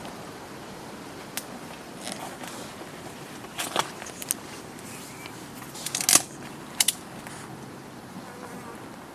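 Steady outdoor background hiss broken by several short, sharp clicks and rustles, the loudest about six seconds in.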